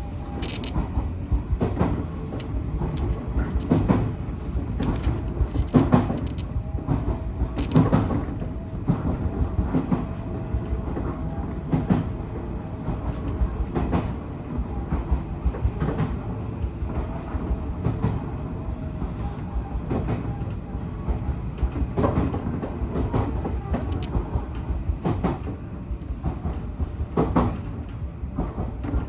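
Odakyu 1000-series electric train running along the track, with a steady rumble and wheels clacking over rail joints at irregular intervals. A faint wavering whine sounds through the middle stretch.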